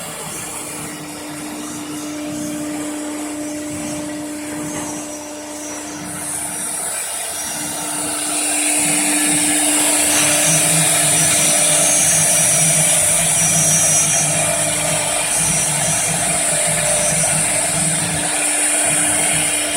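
CNC router spindle running with a steady whine, the cutting noise growing louder about eight seconds in as the bit works into the material.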